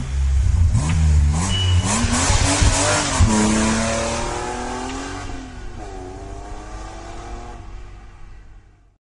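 A motor vehicle's engine starts loudly and revs, its pitch rising and then settling, before it pulls away and fades out over several seconds.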